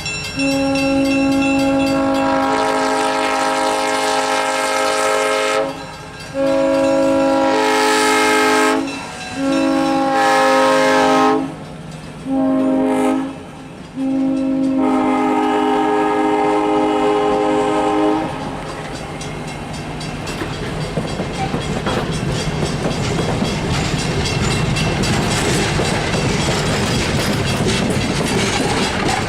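Locomotive horn sounding five chord blasts, the first and last long and the middle ones shorter. After the last blast the train rumbles past, its wheels clattering over the rail joints, the noise growing louder toward the end.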